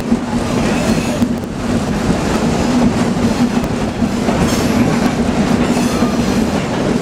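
Excursion train rolling slowly along the track, heard from an open passenger car: a continuous rumble of steel wheels on the rails with a steady low hum underneath.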